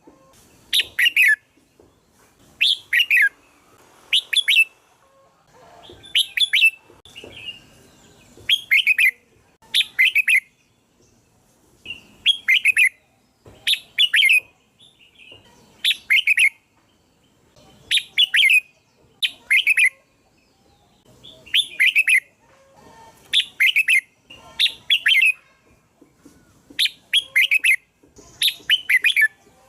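Red-whiskered bulbul calling, short bright phrases of two or three quick notes repeated about every second and a half.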